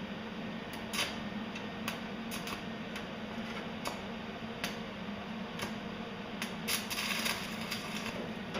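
Stick arc welding: the arc crackling, with scattered sharp pops and a denser burst of crackle near the end, over the steady low hum of a 10-inch exhaust fan drawing off the fumes.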